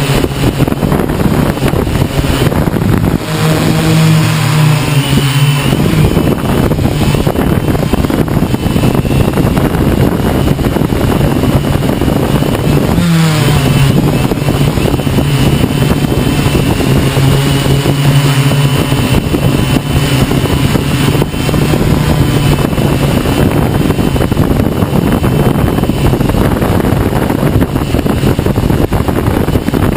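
Hexacopter's electric motors and propellers humming, their pitch shifting up and down as they fight gusts. Heavy wind noise buffets the microphone throughout, and about 13 seconds in the hum briefly drops and rises again.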